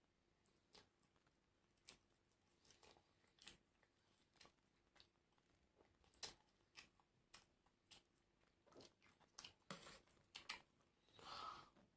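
Close-up chewing and crunching of crispy fried food: faint, irregular crunchy clicks, with a louder, longer crunch near the end.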